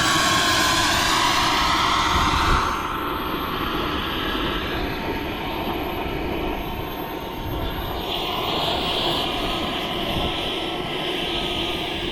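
An aircraft engine passing by, its pitch falling as it goes past, then fading about two and a half seconds in to a quieter steady drone.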